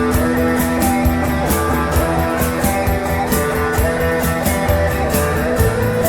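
Instrumental break of a rock song: guitar to the fore over a steady beat, no singing.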